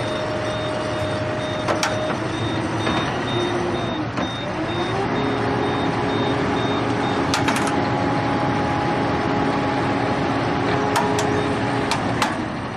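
A heavy vehicle's engine running under load. It dips about four seconds in, then revs up and holds at a higher speed, with a few sharp knocks or clanks.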